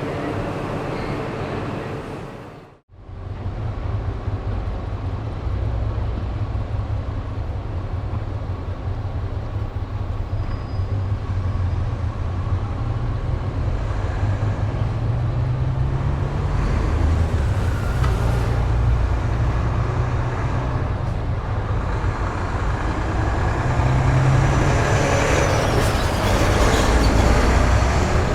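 Road traffic ambience: a steady low rumble of vehicle engines and tyres that grows louder toward the end, with a faint high squeal sliding down in pitch near the end. About three seconds in, the sound dips to silence for a moment where one recording gives way to the next.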